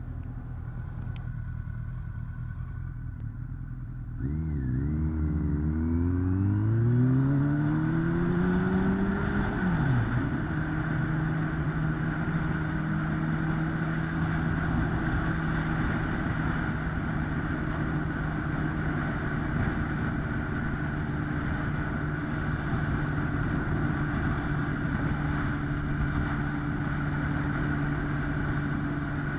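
2008 Kawasaki ZX-10R's 998 cc inline-four running at low revs, then from about four seconds in accelerating with a steadily rising note. The note drops sharply at about ten seconds with a gear change, then holds steady at cruising speed over a constant rush of wind noise.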